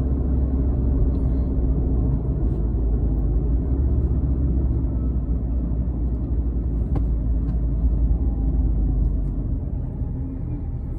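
Car interior road noise: a steady low rumble of engine and tyres heard from inside the cabin while driving, easing slightly near the end as the car slows.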